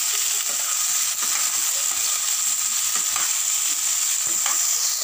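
Green chillies, onion and tomato frying in hot oil in a pan with a steady sizzle, while they are stirred, with a faint scrape about every second.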